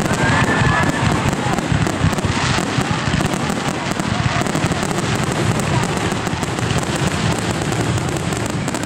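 Fireworks going off close by: a continuous, rapid crackle of many small pops and bangs as shells rise and burst overhead, growing denser about two seconds in.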